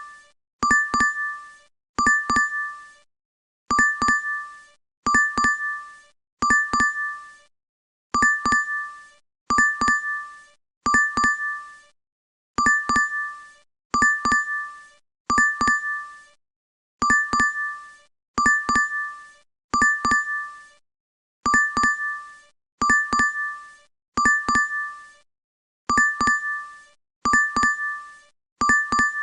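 DoorDash app notification chime playing on a loop: each chime is a quick double ding, sounding in sets of three about 1.3 seconds apart, with a slightly longer pause between sets.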